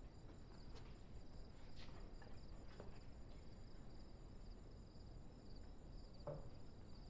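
Faint, steady chirping of crickets, with a few soft knocks, likely footsteps, a couple of seconds in and again near the end.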